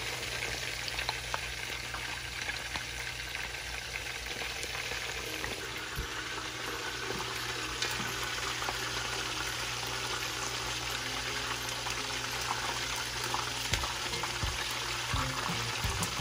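Food frying in hot oil: a steady crackling sizzle with scattered small ticks.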